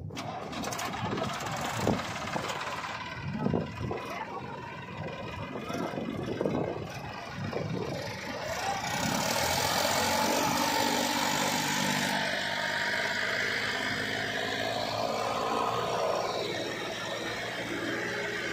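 Scattered knocks and clatter, then a tractor's diesel engine running steadily, getting louder about halfway through.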